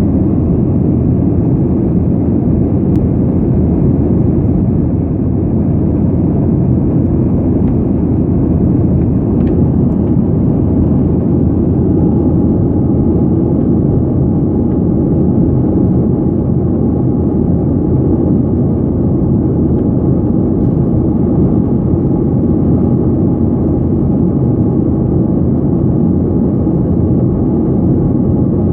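Steady, loud drone of an aircraft's engine heard from inside the cabin: a deep, unchanging rumble with a faint steady hum above it.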